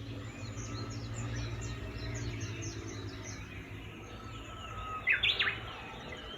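Small birds chirping and calling, with a louder burst of calls about five seconds in, over a steady low hum.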